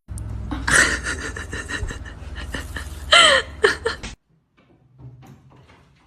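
Cat sounds close to the microphone: a rough, rhythmic breathing-like noise, with a short meow about three seconds in. It cuts off suddenly about four seconds in, leaving only faint small ticks and rustles.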